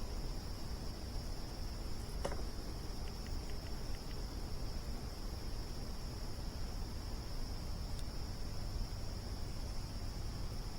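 Crickets chirping in a steady chorus over the low rumble of a campfire, with a sharp pop from the fire about two seconds in.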